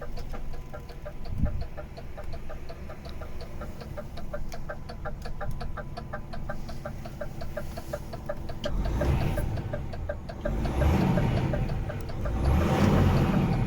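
DAF XF 480 truck's PACCAR MX-13 six-cylinder diesel engine idling with a rhythmic ticking clatter, about five or six ticks a second. In the second half it is revved up and down in several swells.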